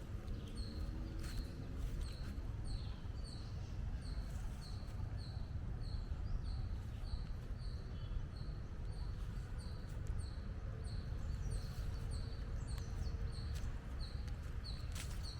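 A bird repeating a short, high chirp about twice a second, steady and evenly spaced, over a low steady rumble of outdoor background noise.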